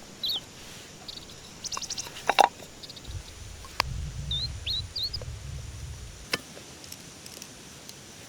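A small bird chirping a few short notes outdoors, over sharp knocks and clatter. The loudest is a quick cluster of knocks a little over two seconds in, with single clicks later. A low rumble runs through the middle few seconds.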